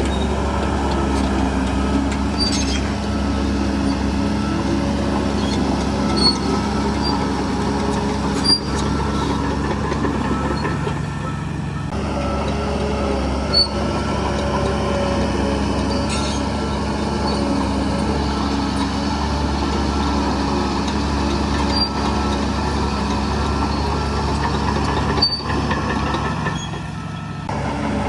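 Heavy earthmoving machine's diesel engine running steadily, with a few short sharp metallic knocks through it and a brief drop in level near the end.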